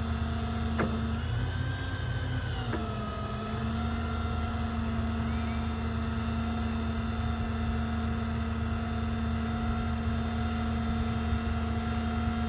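Ram 5500's 6.4-liter gasoline Hemi V8 running at PTO high idle, driving the boom's hydraulic pump with a steady hum and whine. Its pitch lifts slightly about a second in, then settles back down about three seconds in as the boom's hydraulic load changes, with two light clicks.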